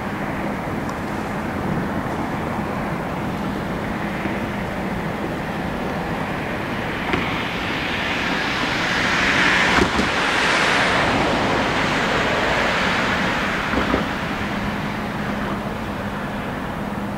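Diesel freight locomotive and train rolling slowly past, a steady low engine hum under the rumble of the cars, swelling louder in the middle, with a few sharp knocks.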